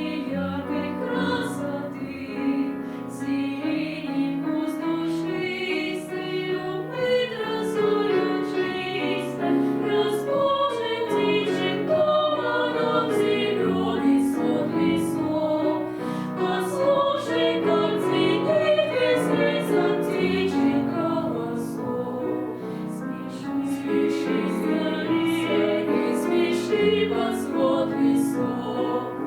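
Children's choir singing a song in unison or parts, accompanied by regular, evenly spaced sharp note strikes.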